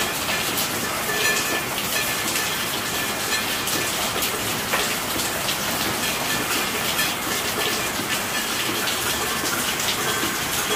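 Steady rain falling: an even hiss of dense drops, with scattered sharper drop hits standing out.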